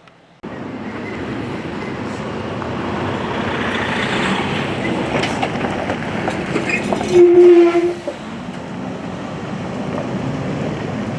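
A heavy vehicle rumbling past close by, building slowly, with a short, loud horn blast about seven seconds in.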